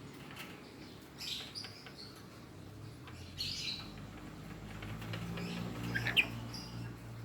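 A pet lory (nuri parrot) giving a few short, high chirping calls, the loudest near the end with a quick upward slide in pitch, over a low hum.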